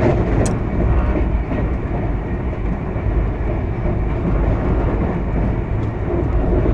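Steady rumble of a passenger train coach running at speed, heard from inside the coach, with the wheels running on the rails.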